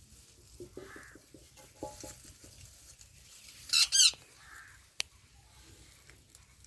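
Ringneck parakeets squabbling: soft clicking and short chattering calls, then a loud, harsh, two-part screech about four seconds in, followed a second later by a single sharp click.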